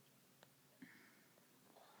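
Near silence: room tone, with a faint click about half a second in and another faint, brief sound just before the one-second mark.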